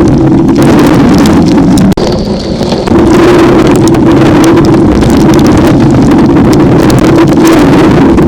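Severe thunderstorm wind buffeting the microphone, a loud, distorted rumble that eases for about a second two seconds in.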